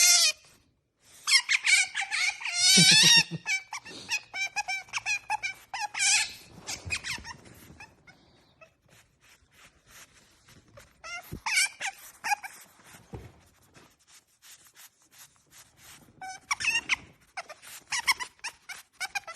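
Pet otter squeaking and chirping in high, wavering, bird-like calls, in several bouts. Between the calls comes a run of quick, hard sniffs.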